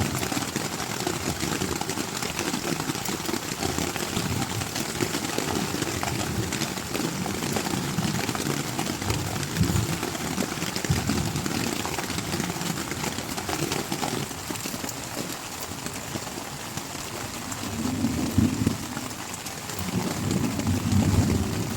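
Heavy rain falling steadily, with irregular low rumbles swelling up now and then, most strongly near the end.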